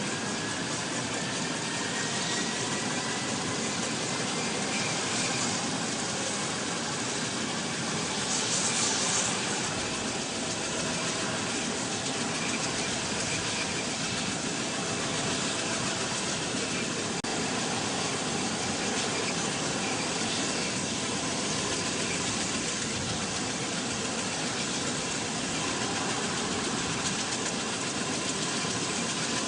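Engines of a V-22 Osprey tiltrotor running with a steady, loud noise, a faint turbine whine rising in pitch over the first few seconds.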